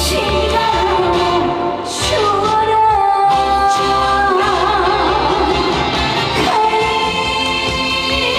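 Live trot song: a woman's voice holds long notes with vibrato over a band backing with a steady bass.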